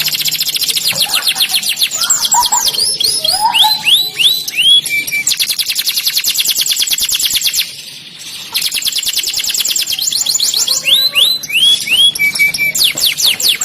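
Domestic canary singing: long, fast trills of quickly repeated falling notes, broken twice by a few slower swooping whistles, with a short pause about eight seconds in.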